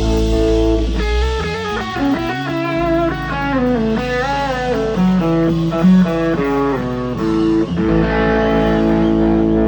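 Live blues band instrumental: an electric guitar plays a lead line of single notes with string bends over bass guitar, starting about a second in, then settles back onto a held chord near the end.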